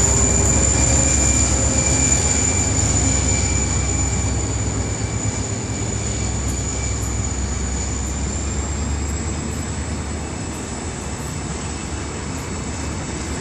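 Saemaeul passenger train carriages rolling slowly past on the track, a steady rumble of wheels on rail with a thin high whine, easing off gradually.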